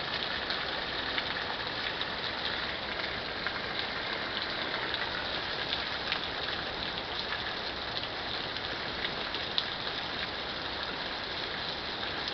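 Thunderstorm rain falling steadily: an even hiss with scattered sharp drop hits.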